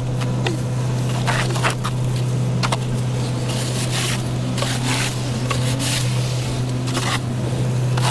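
Snow plow truck running with a steady low drone, overlaid with irregular scraping and crunching clicks as it works through wet snow.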